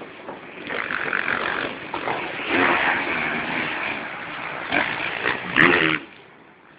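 Motocross bike engines revving in uneven swells, rising and falling, with the loudest surge just before the sound drops away about six seconds in.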